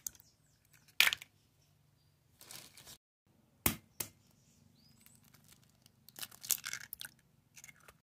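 Kitchen handling noises: a few sharp knocks and clicks, and short rustling bursts.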